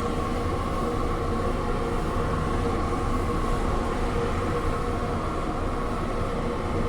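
Steady machinery drone in a food truck kitchen: an even low hum with a couple of steady higher tones, unchanging throughout.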